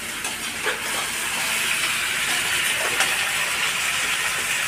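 Onions frying in hot oil in a cooking pot, a steady sizzling hiss that swells about a second in, with a few light clicks.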